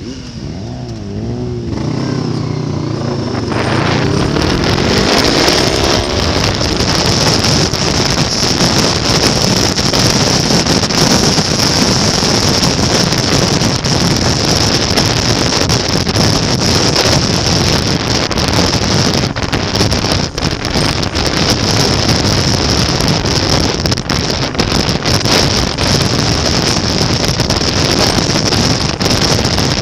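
Motorcycle engine accelerating, its pitch rising in several sweeps over the first few seconds, then a loud steady rush of engine and wind noise as the bike runs at speed.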